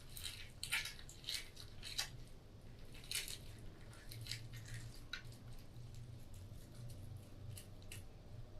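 Faint wet squishing and scraping as the pulp is scooped out of squeezed orange halves, with scattered soft clicks. A low steady hum runs underneath.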